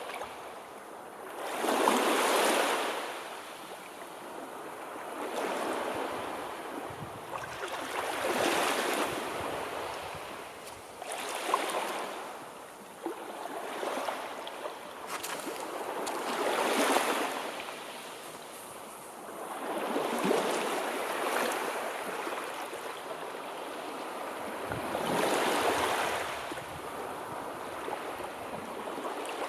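Sea waves washing in and receding, the surf swelling and fading about every five seconds.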